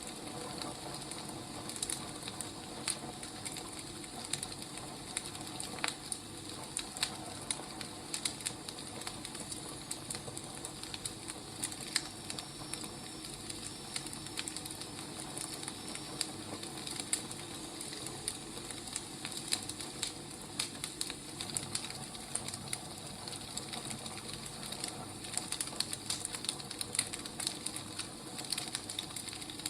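Wood fire crackling steadily, with irregular sharp pops and snaps over a soft even hiss.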